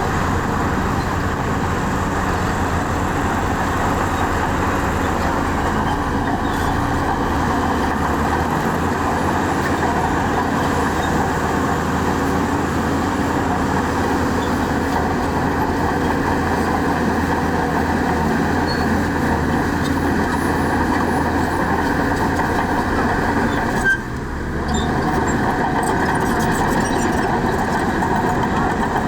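Heavy diesel earthmoving machinery, a bulldozer and dump trucks, running steadily under load. The level drops briefly about four-fifths of the way through.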